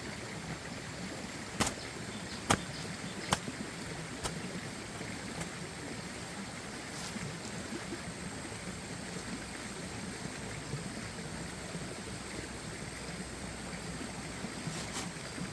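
Steady water noise, with four sharp clicks in the first few seconds and one more near the end.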